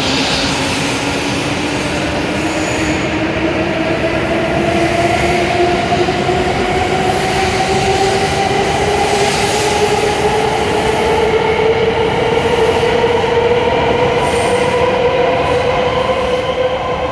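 E7-series Shinkansen accelerating away from the platform: its traction motor whine climbs steadily in pitch as the train picks up speed, over the steady rumble of the cars rolling past.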